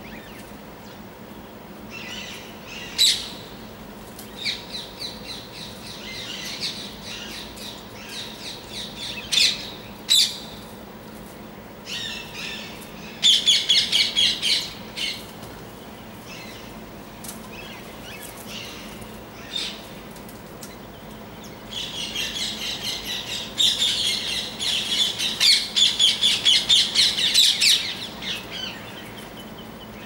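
Birds at a feeder chirping and calling. Scattered shrill chirps build into two runs of fast, repeated calls, a short one about halfway through and a longer, louder one near the end.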